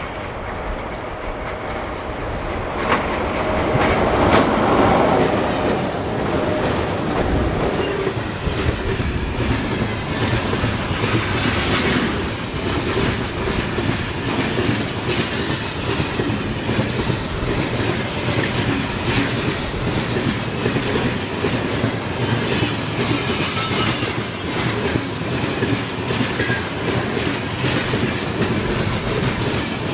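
A train passing close by: the sound swells to its loudest about four seconds in, then the wagons roll past with steady clickety-clack and squeal of the wheels.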